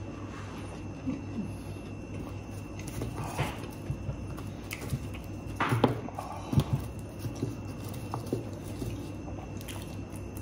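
Close-up eating sounds: chewing and biting into food, with small clicks and a few louder crisp bites about six seconds in, over a steady low hum.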